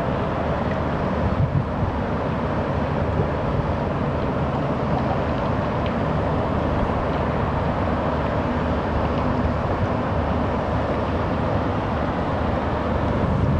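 Steady rushing noise of an electric kayak under way: water and wind on the microphone, with a faint steady motor hum.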